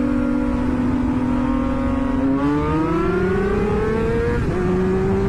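Sport motorcycle engine accelerating hard. Its note holds steady for about two seconds, then climbs, drops suddenly at an upshift about four and a half seconds in, and climbs again. Heavy wind rush on the microphone underneath.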